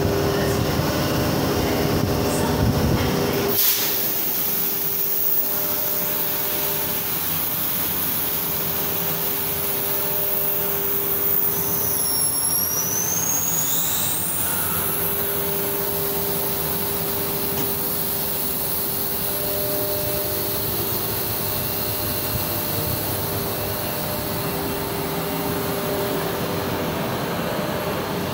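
Sydney Tangara electric train heard from inside the carriage, a steady running noise and a steady motor hum. A sharp knock comes about three and a half seconds in, after which the low rumble drops away. A brief high squeal rises and falls about twelve seconds in.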